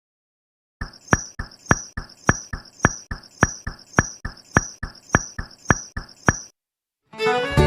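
Rapid, evenly spaced sharp tapping, about three and a half clicks a second, starting about a second in and lasting about six seconds.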